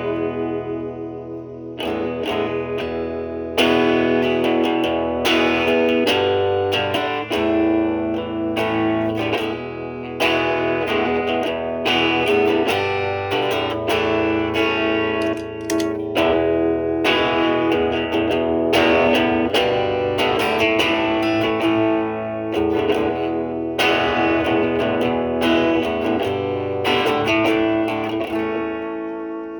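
Electric guitar, a Stratocaster with three single-coil pickups, played through an overdrive pedal into a Marshall Valvestate amp's clean channel for a driven tone. Chords are struck and left to ring, a new strum every second or two, in a blues style.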